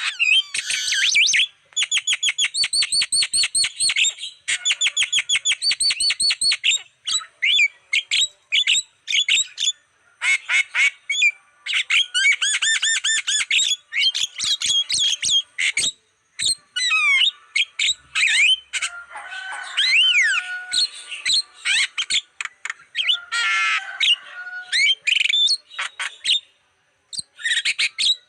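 Javan myna calling as a lure recording: fast runs of repeated chattering notes, harsh squawks and a few gliding whistles, broken by short pauses.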